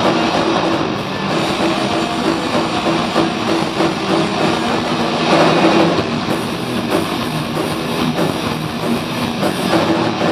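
Live metal band playing loud: distorted electric guitars, bass and drums in one dense, unbroken wall of sound.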